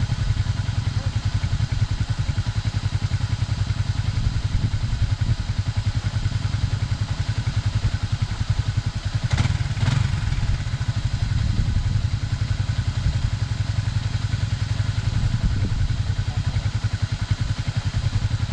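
Yamaha NMAX scooter's single-cylinder engine running steadily under way, with a brief louder clatter about nine and a half seconds in.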